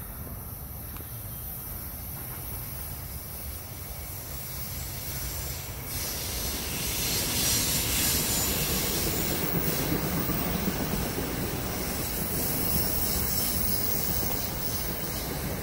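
Commuter train passing on the line: a rush of wheel and rail noise that rises sharply about six seconds in and stays loud.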